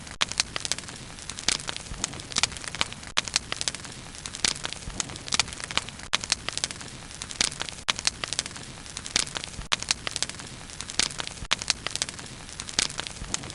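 Wood fire burning with frequent, irregular sharp crackles and pops over a low, steady rumble.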